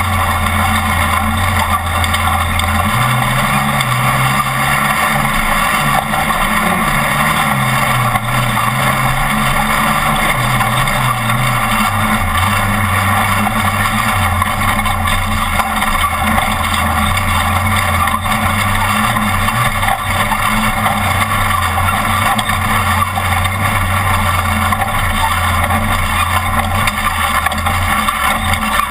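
Off-road race truck's engine running hard, with steady wind and rough-road noise; the engine pitch steps up about three seconds in, holds higher for several seconds, then drops back to a lower steady note.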